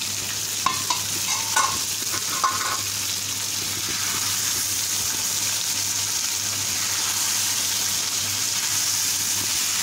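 Chicken pieces sizzling and bubbling in hot oil, spice paste and the juices the chicken has released, in a frying pan, while a steel spatula stirs them. A few brief clinks of the spatula against the pan in the first three seconds.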